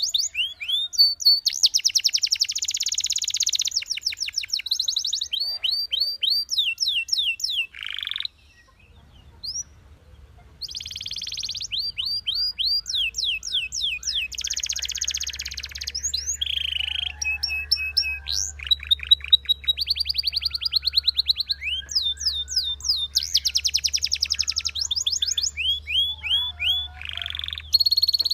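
Belgian canary singing a long run of song phrases: fast trills and rapid series of repeated sweeping notes, with one short pause about nine seconds in.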